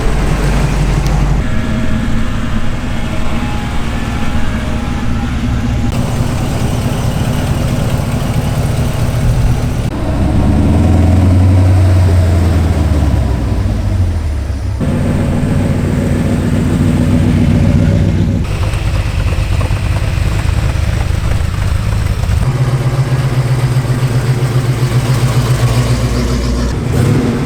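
Several different car engines idling and revving, in short clips that cut abruptly from one to the next; one engine revs up and back down about ten to fourteen seconds in.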